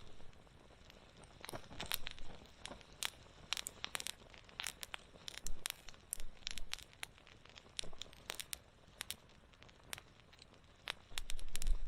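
Wood fire crackling, with irregular sharp pops and snaps. A low rumble comes up about eleven seconds in.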